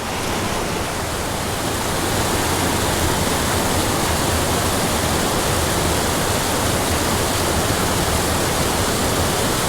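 Rushing water of a steep mountain creek pouring over small waterfalls: a steady, full hiss with no breaks, a little louder from about two seconds in.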